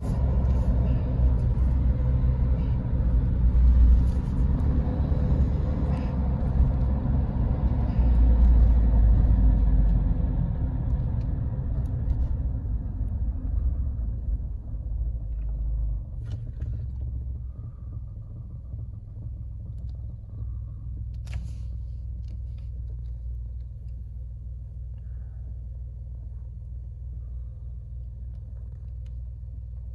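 Inside a Suzuki Jimny JB64: the 658 cc turbocharged three-cylinder engine and road noise make a loud low rumble while it drives. The rumble fades as the car slows to a stop about halfway through, and after that the engine idles with a steady low hum.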